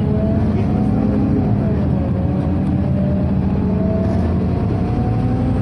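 Scania OmniCity city bus heard from inside the cabin while it drives: a steady low rumble from the engine and drivetrain, with a whine that rises and falls in pitch as the bus changes speed.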